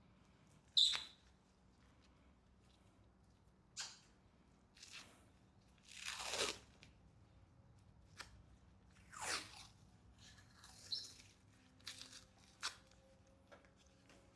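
Scattered, fairly quiet handling noises while a piston and connecting rod come out of an engine: a sharp ringing metal clink about a second in, a few lighter clicks, and several short swishing noises, the longest around six and nine seconds.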